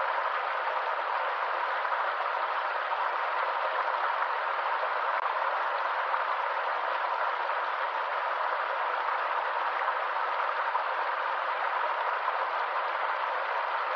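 Forest stream water running steadily, an even, unbroken rushing with no pauses or changes.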